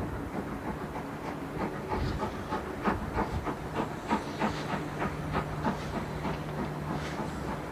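Train hauled by LMS Black 5 steam locomotive No. 44871 rolling slowly, its wheels clicking over rail joints and pointwork a few times a second, over a steady steam hiss. A steady low hum joins in about halfway through.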